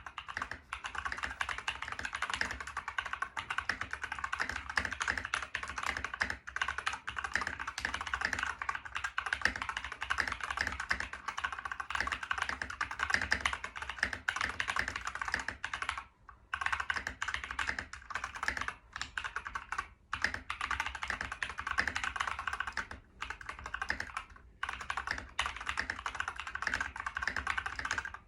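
Continuous fast typing on a mechanical keyboard with Glorious Panda tactile switches on 63.5 g springs and lubed plate-mount stabilizers, the keystrokes clacking in quick runs with a few brief pauses.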